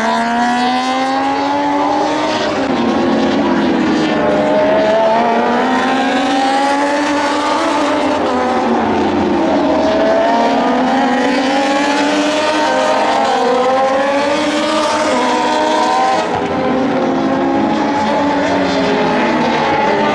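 Several Moto2 racing motorcycles with Triumph 765 cc three-cylinder engines running hard on track, more than one bike at once. Their engine notes climb and drop every few seconds as the riders accelerate, change gear and brake.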